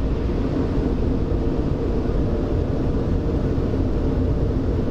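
Steady rushing of MacNeil car wash dryer blowers, heard from inside the car's cabin.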